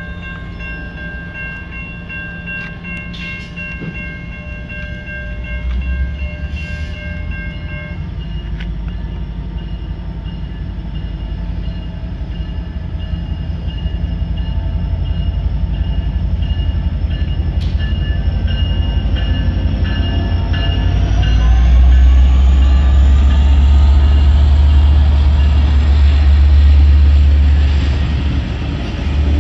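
Electronic railroad crossing bell ringing, stopping about eight seconds in once the gate arms are down. Then an Amtrak passenger train led by an F59PH diesel locomotive approaches and passes slowly, its deep rumble building and loudest in the last several seconds, with a high whine rising in pitch about twenty seconds in.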